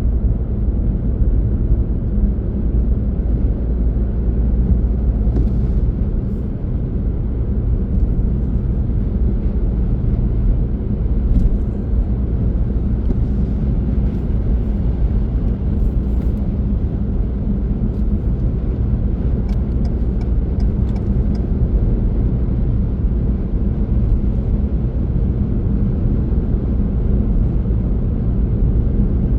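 Car driving along: a steady low rumble of road and engine noise. A few faint clicks come through about two-thirds of the way in.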